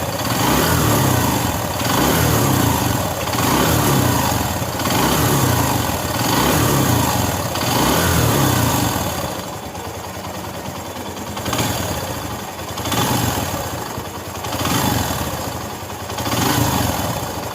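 Rebuilt motorcycle engine, newly fitted with a genuine camshaft, revved in repeated blips about every second and a half. It then drops to a quieter idle, with a few short blips near the end.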